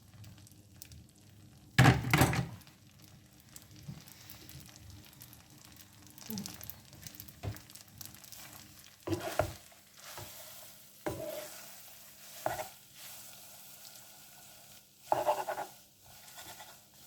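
Spaghetti being stirred in a pan of simmering seafood sauce, where it finishes cooking: the utensil scrapes and knocks against the pan now and then over a faint sizzle, with a loud clatter about two seconds in.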